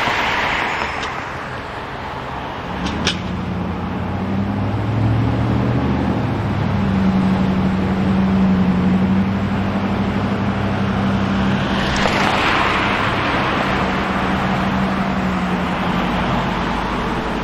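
Street traffic with cars passing, and a low steady engine hum from about three seconds in until near the end.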